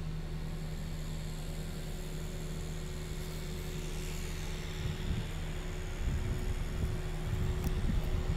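A vehicle engine idling with a steady low hum. Irregular low rumbling grows louder over the second half.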